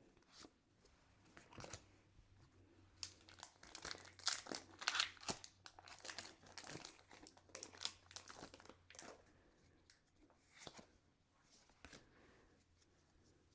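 Foil booster pack wrapper being crinkled and torn open by hand: soft, irregular crinkling and rustling in uneven spurts, busiest in the middle.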